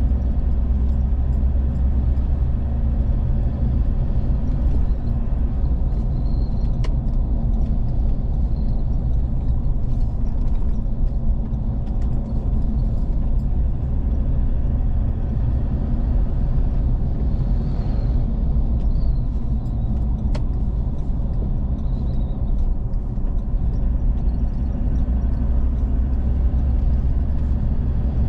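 Steady low rumble of a vehicle driving along a road, engine and tyre noise, with a few faint clicks and rattles.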